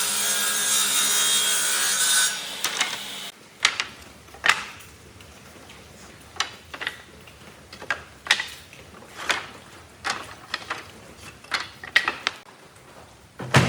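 A woodworking machine runs steadily with a low hum, then cuts off a little over three seconds in. After that come scattered sharp knocks and scrapes of tools and wood being handled, roughly one a second.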